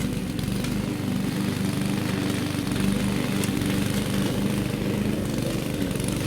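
Small petrol engine of a grass-cutting machine, most likely a lawn mower, running steadily with a dense, buzzing engine pulse. It cuts off abruptly at the end.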